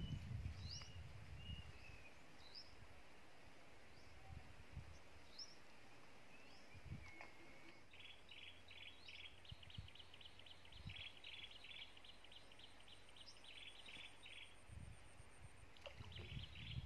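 Quiet outdoor ambience with birds chirping: scattered short high chirps, then from about halfway a fast run of repeated notes that breaks off and starts again near the end. A few faint soft knocks.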